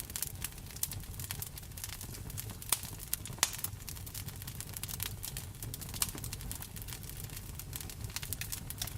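Wood fire in a fireplace crackling with frequent small pops, two louder pops about three seconds in, mixed with steady rain over a low rumble.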